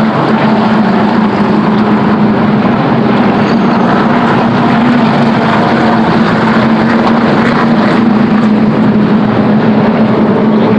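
NASCAR stock cars' V8 engines running at race speed around the track, a loud, steady drone from the field of cars that holds through the whole stretch.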